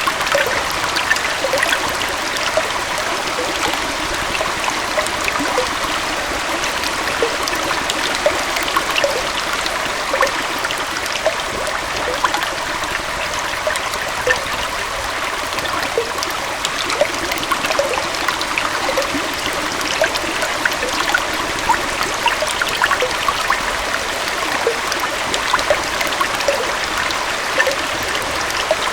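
Small forest stream and gentle waterfall flowing steadily, a continuous rush of water with many small trickling splashes.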